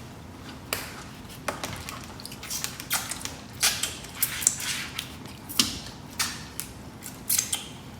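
Scattered short crunches and clicks, a dozen or so at irregular intervals, as people eat Doritos tortilla chips with dip.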